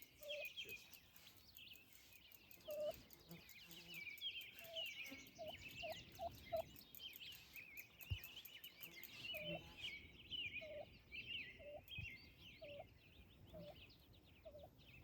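Faint bird calls: many small birds chirping continuously, with a lower, short call repeating about once a second, typical of poultry.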